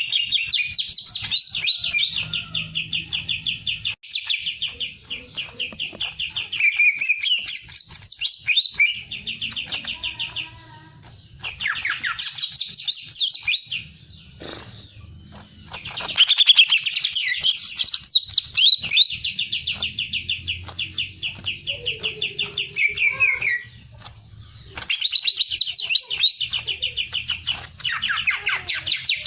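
A caged songbird singing hard in long bouts of rapid, high chattering trills and warbled phrases, breaking off briefly three times.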